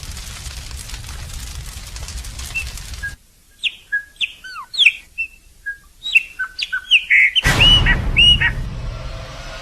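Birds singing: a string of sharp whistled notes and chirps, many sliding up or down in pitch. They come after about three seconds of dense crackling noise that cuts off abruptly. In the later part a rush of noise runs under them.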